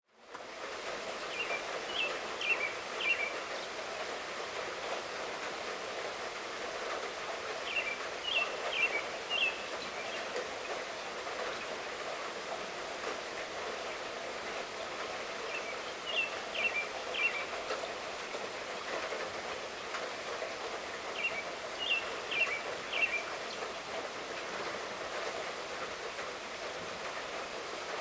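Steady light rainfall hissing evenly. A bird sings a short phrase of several quick notes about every six seconds, four times.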